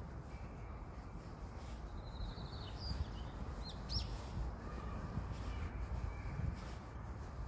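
Small songbirds calling: a quick run of chirps about two seconds in, then a few sharp, high, rising chirps about four seconds in, over a low background rumble.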